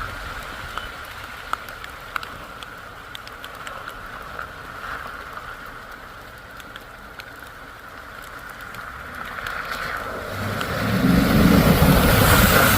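Rain falling, with scattered drop ticks over the steady running noise of a vehicle; the sound swells louder with a low rumble near the end.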